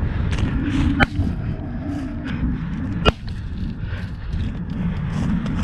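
Two shotgun shots, about two seconds apart, over steady wind rumble on the microphone.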